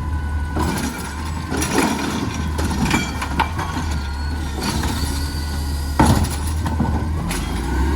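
Garbage truck engine running steadily, with several sharp knocks and clanks from the truck's equipment at work.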